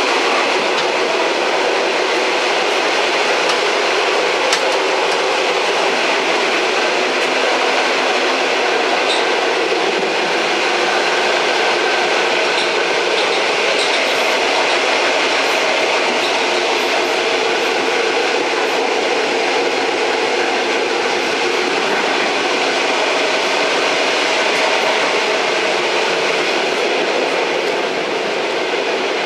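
Old train running steadily along the rails: an even rumble and rattle of the rolling carriage with faint clicks from the wheels.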